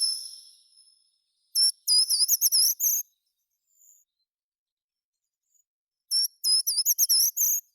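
A songbird singing two short phrases of quick, repeated high whistled notes, about four seconds apart, after a fading high note at the very start.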